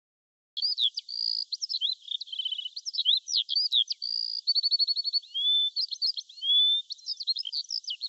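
A songbird singing a fast, varied song of whistled notes, sliding whistles and rapid trills. It starts about half a second in and runs on without a break.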